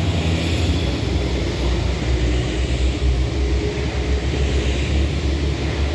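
Wind buffeting the microphone: a loud, steady low rumble that rises and falls in gusts.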